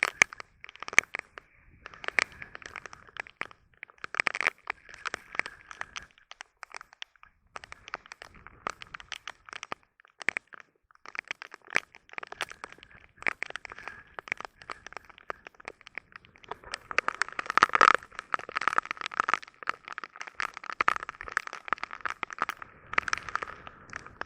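Heavy rain shower, drops striking hard and close by as a dense, irregular crackle of sharp hits. It eases briefly about a quarter of the way through and is heaviest about three quarters of the way in.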